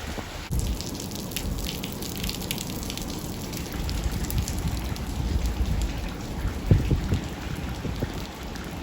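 Thawing ice and meltwater dripping, many small scattered ticks and patters like rain, over a steady low rumble.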